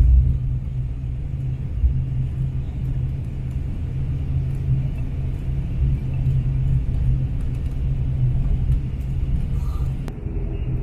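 Steady low rumble inside an airliner's cabin as the plane rolls along the ground after landing.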